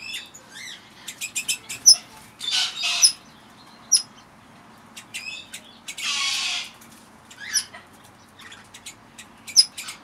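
Aviary birds chirping in short, high calls with scattered clicks, and two longer noisy bursts about two and a half and six seconds in.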